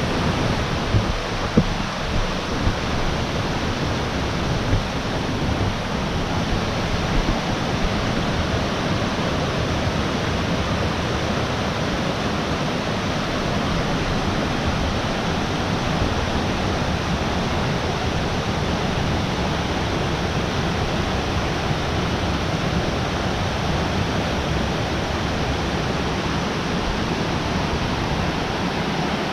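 Mountain creek rushing steadily, running high with heavy rain, with a few light knocks in the first couple of seconds.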